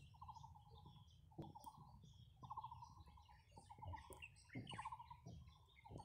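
Faint birdsong: several birds chirping, one of them repeating a short rattling trill about once a second.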